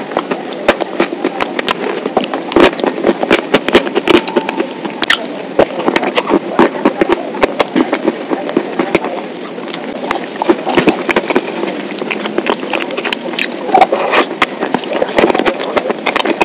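Close-miked eating sounds: chewing and lip-smacking on a mouthful of chocolate spread, a dense run of quick wet clicks and smacks.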